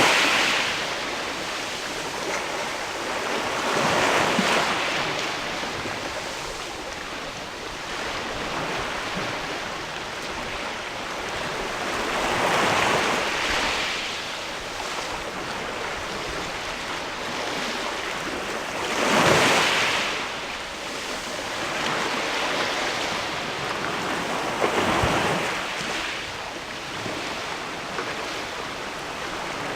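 Sea waves washing against the rocks at the foot of a sea cliff, a steady wash with a wave surging in and breaking every several seconds, the loudest surge about two-thirds of the way through.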